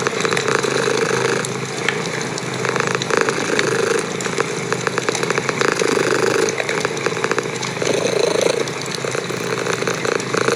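A domestic cat purring close to the microphone: a steady, motor-like buzzing rattle that swells and eases with each breath in and out. Faint crackles of a wood fire in a fireplace are mixed in.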